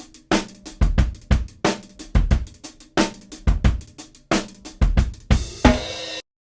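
Drum-kit groove of kick drum, snare and hi-hat, ending on a cymbal crash about five seconds in that cuts off abruptly.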